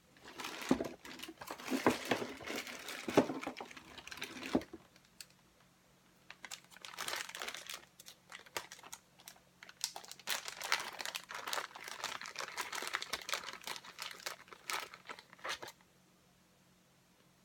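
Crinkling and rustling with scattered clicks and knocks, in two stretches with a short pause between: things being handled, with no saw motor running.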